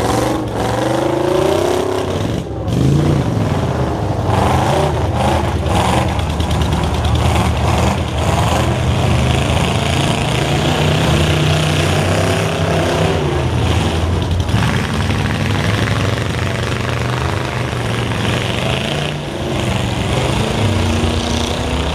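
Demolition derby stock trucks' engines running and revving, several at once, their pitch rising and falling as the trucks drive at each other.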